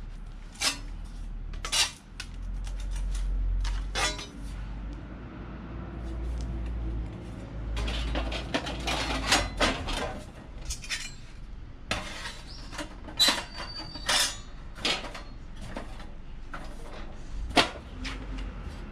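Stainless steel sheet-metal parts of a homemade fire pit being handled, bent and fitted together: a series of sharp metallic clinks and knocks with stretches of scraping clatter.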